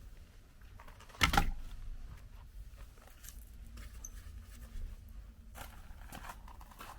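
A single loud axe blow on a firewood log about a second in, followed by a few faint knocks and rustles.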